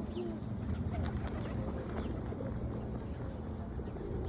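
Pigeons cooing faintly over a steady low rumble.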